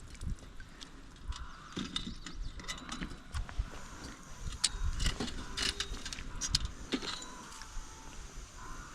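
Irregular light metal clinks and knocks, as of steel pieces being handled, over a low uneven rumble. The clinks are busiest in the middle of the stretch.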